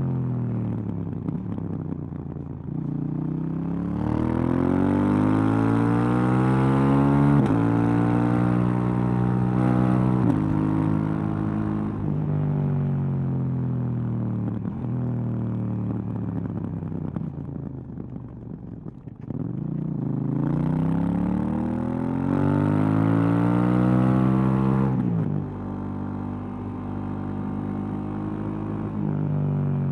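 2018 KTM 790 Duke's parallel-twin engine through its stock exhaust, heard from the rider's seat. It pulls hard through two quick upshifts, eases off to a falling note on a closed throttle, then accelerates hard again until the throttle is shut sharply, and runs lower toward the end.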